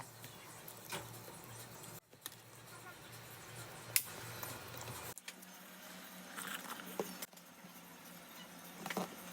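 Quiet eating sounds: chewing and small mouth noises, with a few light clicks like utensils or chopsticks touching a plate or container.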